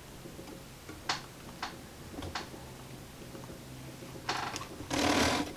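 Small clicks and taps of hand work while a twisted wire splice is being soldered, a few sharp ticks spread apart, then a short louder rustling burst near the end, over a faint steady hum.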